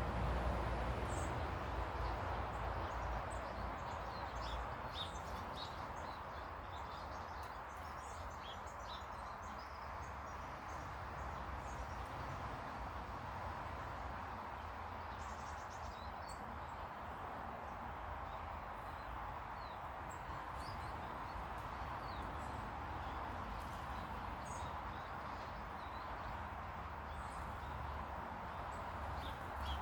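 Small garden birds giving short, scattered chirps and calls over a steady background hiss, with a low rumble fading away over the first few seconds.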